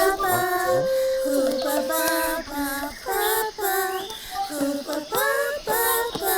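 A high, childlike cartoon voice singing wordless babbling syllables in short, stepped notes: the Marsupilami's sing-song chatter.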